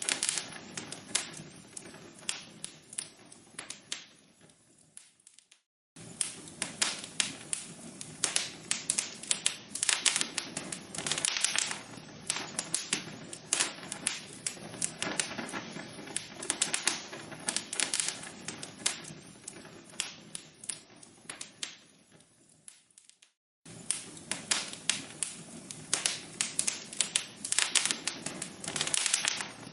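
Burning logs in a fireplace, crackling with a dense run of sharp pops and snaps. The crackling fades away to a moment of silence about five seconds in and again near the three-quarter mark, then cuts back in at full strength each time, as the recording loops.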